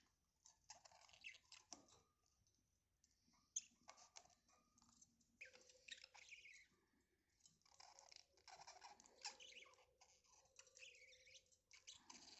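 Pet budgerigars chattering softly, a quiet run of short warbles, chirps and clicks.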